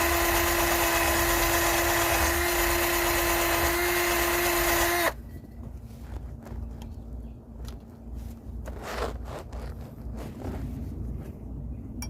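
An electric power tool's motor running at a steady speed with a steady whine, cutting off suddenly about five seconds in. Faint handling clicks follow.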